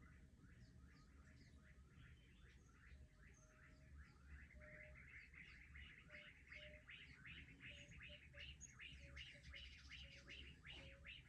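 Faint morning birdsong: a long, fast series of short down-slurred whistled notes, about three to four a second, growing louder through the second half. A lower short note repeats under it.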